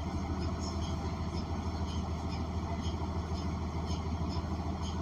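Inside a New Flyer XN40 transit bus, its Cummins Westport ISL G natural-gas engine running with a steady low drone. Faint light ticks recur about every half second.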